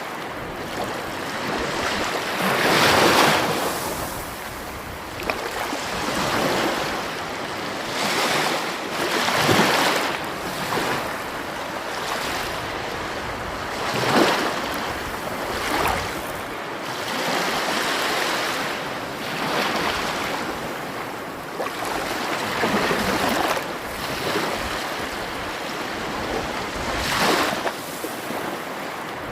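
Sea waves breaking and washing on a shore, the rush swelling and falling back every few seconds.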